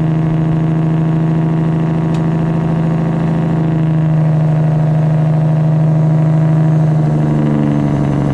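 Straight-piped Detroit Diesel 12.7 in a Freightliner Classic XL running steadily under way, a loud deep drone from the open exhaust. Its note dips slightly about seven seconds in.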